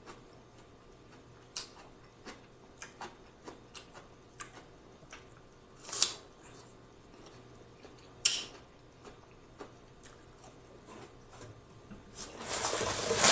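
Close-up eating sounds: chewing and lip smacking as a string of short wet clicks, two of them louder about six and eight seconds in. Near the end a rustling noise rises.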